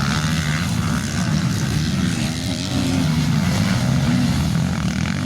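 Several motocross dirt bikes running together on the track, their engines blending into a steady, overlapping hum.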